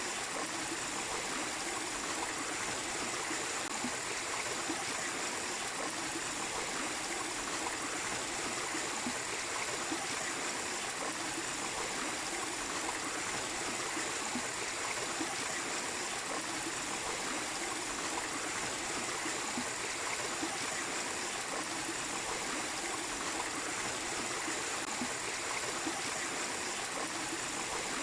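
A small waterfall and stream, water splashing and trickling over rocks in a steady, even rush.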